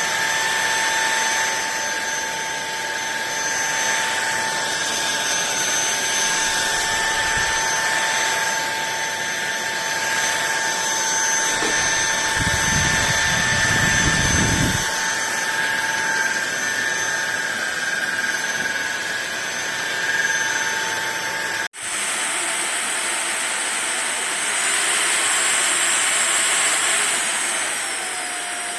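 Fieety cordless stick vacuum cleaner running, a steady high-pitched motor whine. About two-thirds of the way through the sound breaks off for an instant and comes back with a higher whine, which falls in pitch near the end.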